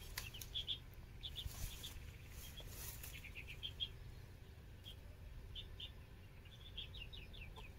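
Faint, scattered short high chirps of small birds, with a quick run of several notes near the end, over a low background rumble.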